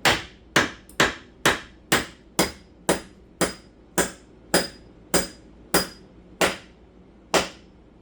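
Hammer driving a 3/8 by 3 inch anchor bolt into the concrete slab: about fourteen sharp, evenly spaced metal blows, roughly two a second, spacing out a little near the end, several with a faint high ring.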